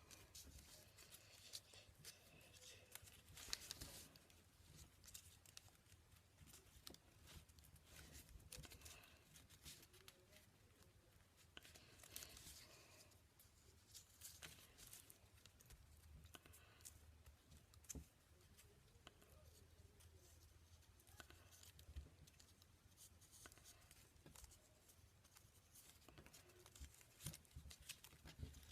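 Faint sounds of a sheet of origami paper being folded and creased by hand: soft rustling swishes and scratchy rubs with scattered light clicks.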